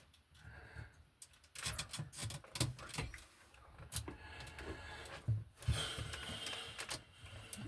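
Stiff electrical wires and wire-nutted splices being pushed and folded into an electrical box: a run of irregular clicks and knocks, with a stretch of scraping near the end.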